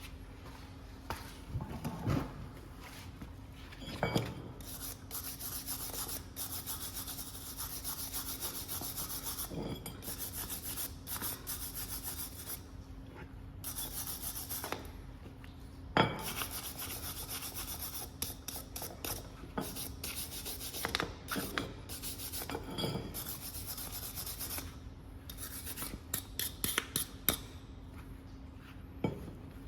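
Hand scraping of brake caliper parts, in rhythmic rasping strokes that come in runs of several seconds, with a few sharp knocks of metal parts between the runs.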